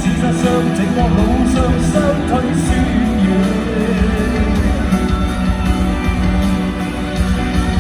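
Rock band playing live, with electric guitar lines over bass and drums.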